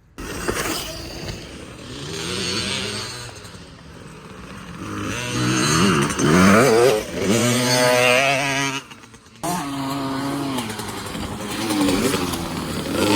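Small dirt bike engine revving up and down as the bike rides the track, its pitch climbing and dropping several times. It cuts out abruptly about nine seconds in, then resumes.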